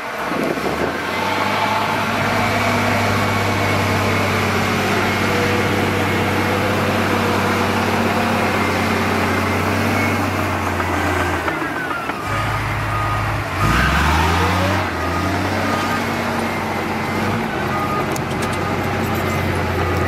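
Heavy diesel earthmoving machinery running steadily with a deep engine hum. About fourteen seconds in, an engine revs up briefly.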